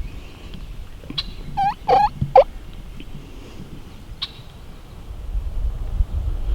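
Wild turkey gobbler gobbling once, a rapid rattling run of notes lasting about a second, about a second and a half in.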